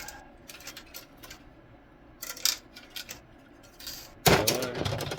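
Small clicks and clinks of screws and hard plastic headlight parts being handled and set down during disassembly, with a louder clatter about four seconds in.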